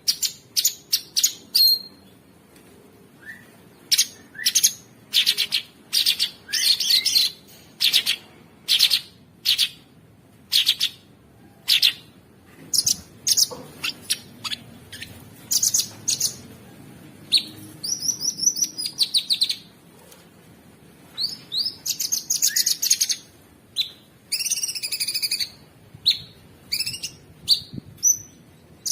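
Cucak sungkok songbird singing: loud bursts of rough, rapid chattering notes and rattling trills, one after another with short pauses between them.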